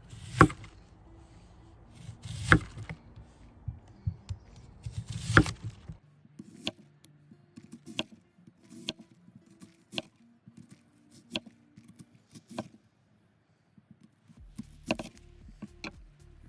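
Knife slicing an onion into rounds on a cutting board, each cut ending in a sharp knock on the board. Three loud strikes come first, then a run of lighter, evenly spaced cuts, a short pause, and a few more cuts near the end.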